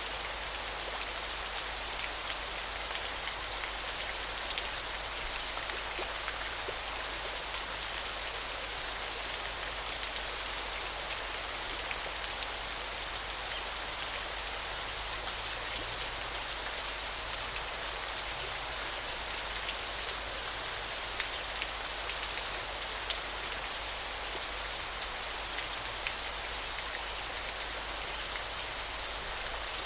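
River water flowing with a steady rushing sound. A thin, high buzz repeats over it in pulses of about a second, a little apart.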